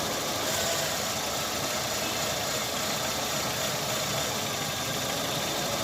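Chevrolet Optra's four-cylinder engine idling steadily with a light, uneven running from a misfire. The mechanic traces the misfire to weak ignition coils on cylinders 2 and 3.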